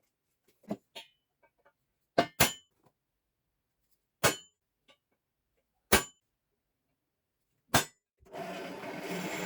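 Metal pieces clanking as they are set down or knocked together, a handful of separate sharp clinks with a brief ring, a couple of them in quick pairs. Near the end a steady rasping, like a file on metal, starts up.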